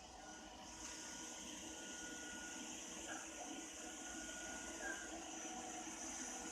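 Ropo Glass robot vacuum cleaner running steadily, its motor giving a faint hum with a high whine that comes up about a second in.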